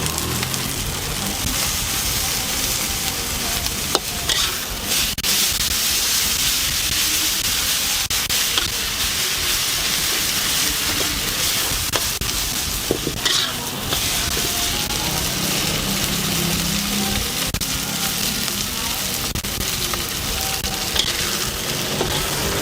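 Rice noodles and chicken sizzling as they are stir-fried in a hot wok: a steady frying hiss, broken now and then by sharp clinks of the spatula against the pan.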